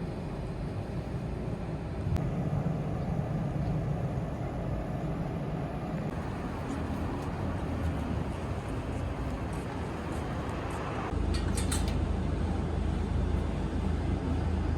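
Steady low rumble of a vehicle in motion with background noise; the sound changes abruptly about eleven seconds in to a stronger, deeper hum.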